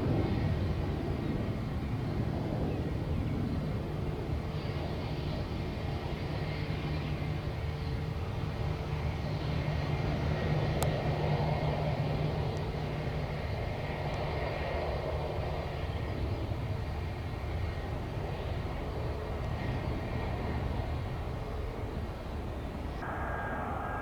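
Jet airliner engines running at a distance: a steady rumble with a rushing haze that swells slightly about ten seconds in.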